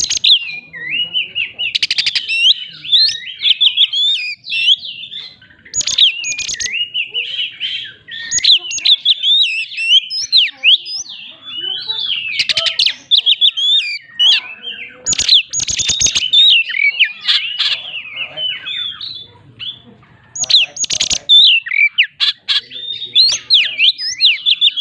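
Oriental magpie-robin (kacer) singing without pause: a fast, varied run of high whistled notes. Every few seconds it breaks into short bursts of harsh, rapid clicks, the 'shooting' phrases of a kacer's rolling song.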